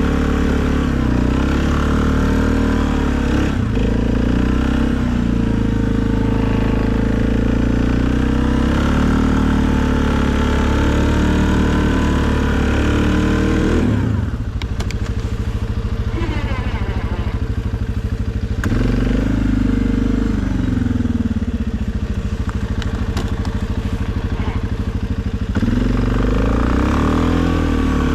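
2020 Suzuki KingQuad ATV's single-cylinder engine running under plowing load, revs rising and falling. About halfway through it settles to a lower, even idle, picks up briefly, idles again, and revs back up near the end.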